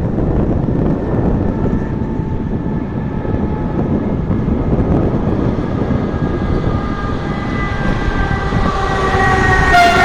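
Train pulling into a station behind an ONCF E-1400 class electric locomotive: a steady, loud rumble with faint whining tones that slowly rise in pitch. The locomotive's horn sounds loudly near the end.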